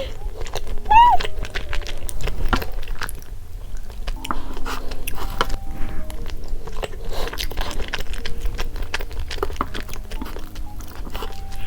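Close-miked eating sounds: chewing with many quick wet mouth clicks as a homemade chocolate crepe cake is eaten, over light background music.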